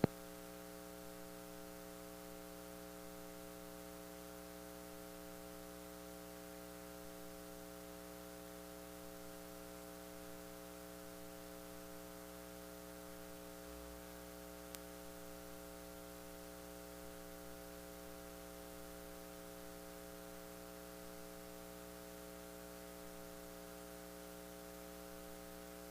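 Steady electrical mains hum with a faint hiss, picked up through the microphone and recording chain; one faint click about fifteen seconds in.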